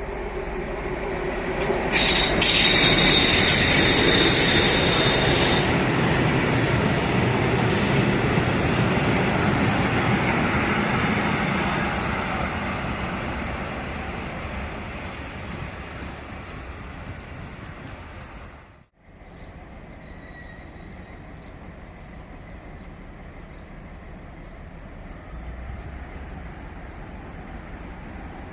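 SU45 diesel locomotive arriving with a passenger train. Its wheels and brakes squeal with high tones from about two seconds in as it runs past, and the sound then slowly fades. Near the end it cuts abruptly to a quieter, steady rumble.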